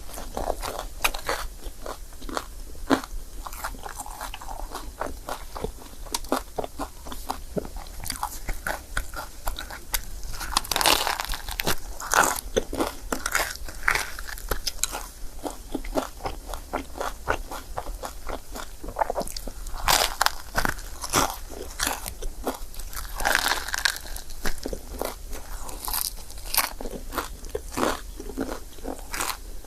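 Close-miked chewing and biting of a crepe: a steady stream of small crunches and clicks, with louder clusters of bites several times.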